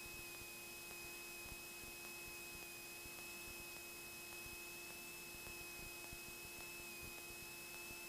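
Faint steady hum and hiss in a Cessna 172N cockpit, with a high whine that drifts slightly in pitch over a lower steady tone.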